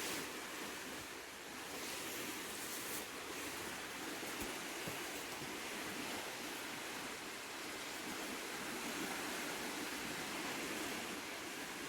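Surf washing steadily on a beach, an even hiss of small waves with no single breaker standing out.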